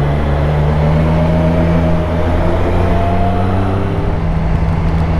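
Triumph Street Triple RS's three-cylinder engine running steadily under way, its note rising slowly through the middle as the bike pulls in gear. A constant rush of wind and road noise sits under it.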